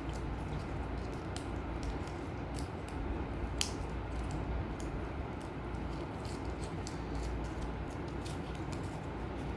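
Small scattered crinkles and clicks of paper handling as a folded sticky note is unfolded, with one sharper click about three and a half seconds in, over a steady low hum.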